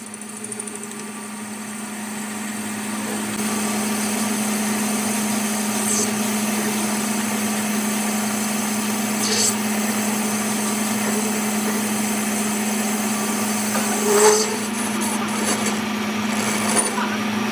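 A workshop machine's motor running steadily with a constant hum. It builds up over the first few seconds, then holds, with a few short scraping or grinding flicks over it.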